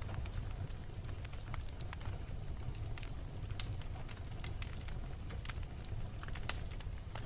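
Wood fire burning in a fireplace: logs crackling with frequent irregular sharp pops over a steady low rumble of flame. The loudest pop comes about six and a half seconds in.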